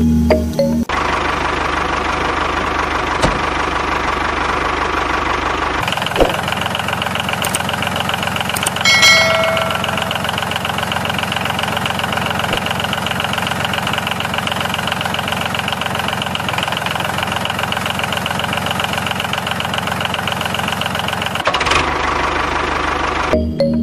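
Tractor engine running steadily with a knocking beat; its tone changes about six seconds in, and a short pitched sound comes about nine seconds in.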